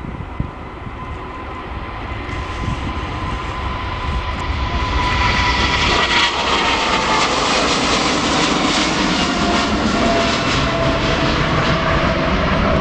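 Jet airliner's engines, growing steadily louder over several seconds and then holding loud. A thin engine whine slides down in pitch about halfway through as the aircraft passes.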